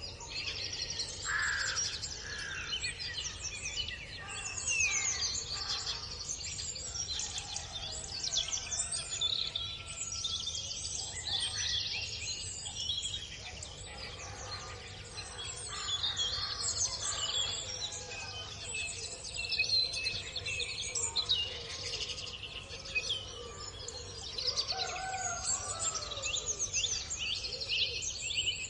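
Many birds chirping and twittering together in a constant busy chorus of quick high calls, with a few lower calls in between.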